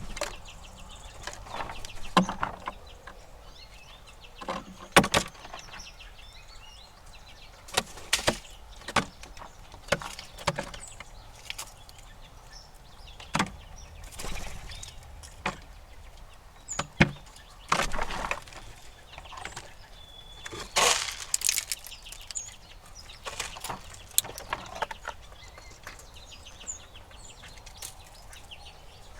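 Squirrels feeding at backyard feeders: irregular sharp cracks and knocks, some in quick clusters, with a few faint bird chirps.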